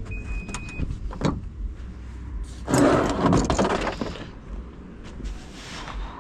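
Heavy machine running with a steady low rumble, with a few sharp metallic clicks early on and a loud, harsh noisy burst lasting about a second and a half, starting just under three seconds in.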